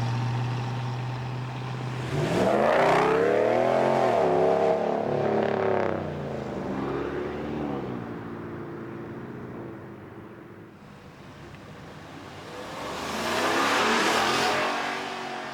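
A car's engine holding a steady low note, then about two seconds in revving hard as the car accelerates away, its pitch climbing and dipping over a few seconds before it fades into the distance. Near the end a second vehicle swells up loudly as it passes.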